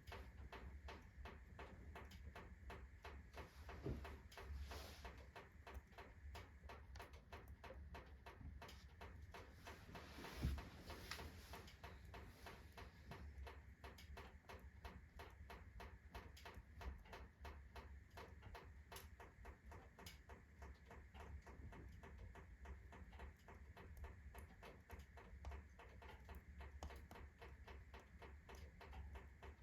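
Rotten firewood burning on hot embers in a wood-burning stove: faint, rapid crackling, with a louder pop about four seconds in and another about ten and a half seconds in.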